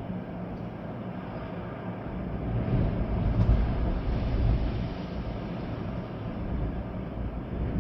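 Storm wind gusting through trees with rain, swelling in a stronger gust a few seconds in and easing again, with a deep rumble of wind on the microphone.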